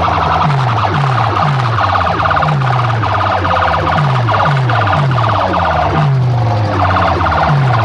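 Siren-style electronic effect played at high volume through a DJ sound-box system: a fast pulsing high tone over deep bass notes that drop in pitch about twice a second.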